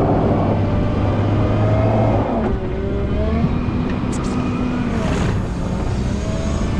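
Volvo L90H wheel loader running under load, its engine drone dropping about two seconds in, followed by whining tones that rise and fall as the revs change.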